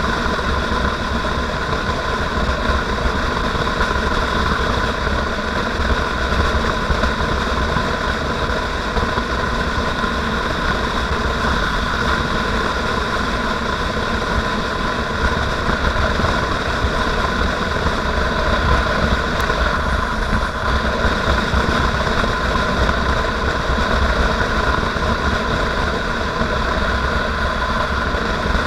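Motorcycle engine running steadily while riding, at an even level throughout.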